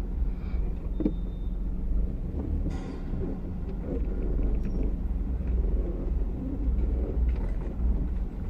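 Car driving over a rough, bad road, heard from inside the cabin: a steady low rumble of engine and tyres, with a few short knocks as it jolts.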